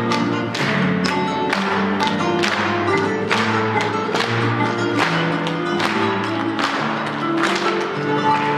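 Acoustic guitar strummed in a quick, even rhythm, with sharp chord strokes about twice a second over ringing bass notes: instrumental music in Russian Romani style.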